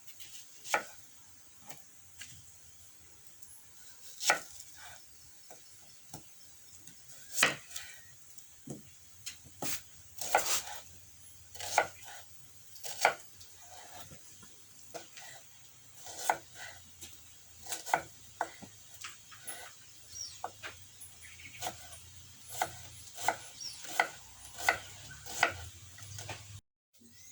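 Sharp, irregular knocks of a knife chopping on a wooden board, spaced out at first and coming quicker in the second half, over a steady faint high hiss.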